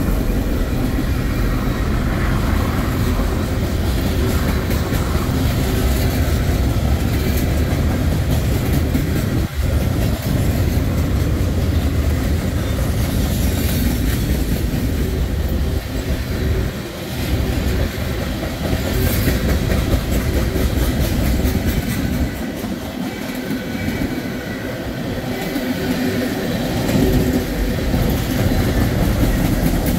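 CSX freight train rolling past at close range: a steady, loud rumble of freight cars with the wheels clattering over the rail joints.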